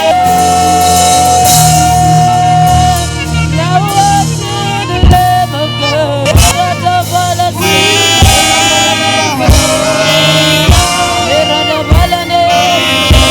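Live gospel worship band music: a lead melody of long held notes that bend between pitches, over a sustained bass and a drum kit striking about once every second and a half from about five seconds in.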